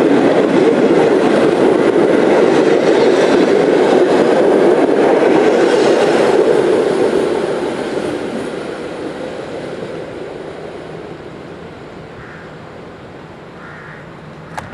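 Passenger coaches of a locomotive-hauled train rolling past at close range, a steady rumble of wheels on the rails. The rumble fades away from about seven seconds in as the tail of the train recedes.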